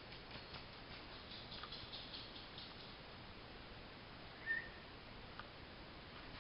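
A Boston Terrier's short high squeak while play-wrestling, with a run of faint quick clicks and scuffs before it.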